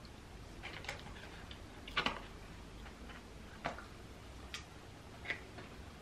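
Quiet eating sounds: about five soft, sharp clicks and crunches at irregular intervals while chewing fried chips and chicken pieces.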